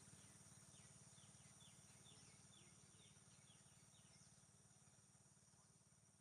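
Faint rural morning ambience: a bird giving a quick run of short, falling chirps, about two a second, over a steady high insect drone and a low hum, the whole fading out toward the end.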